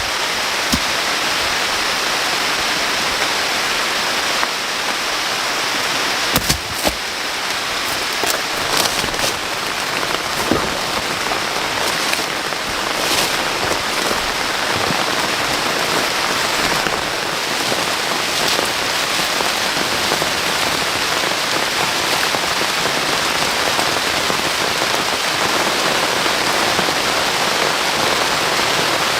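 Heavy rain falling steadily on forest foliage, a dense even hiss, with a scatter of sharper drop hits and knocks between about six and thirteen seconds in.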